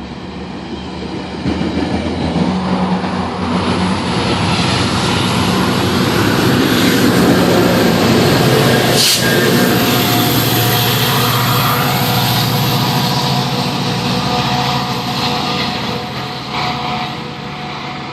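A train passing close by, its locomotive and wheels on the rails making a loud, steady rumble. The sound builds over the first few seconds, is loudest in the middle and eases off near the end. There is a single sharp clank about nine seconds in.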